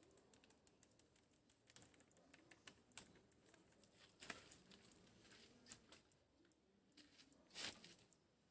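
Near silence with faint, scattered light clicks and a brief soft rustle near the end: small kitchen handling sounds while spice powders are added to a flour mix.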